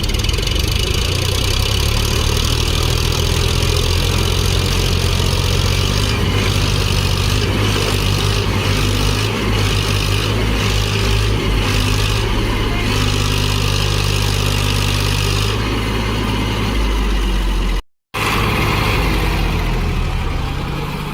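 Tractor diesel engine running steadily, its pitch stepping up and down a few times, with a brief break in the sound near the end.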